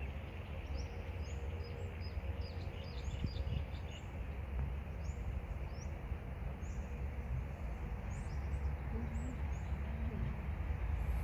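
Small birds chirping, a run of short, high, falling calls that thin out after about two-thirds of the way through, over a steady low rumble.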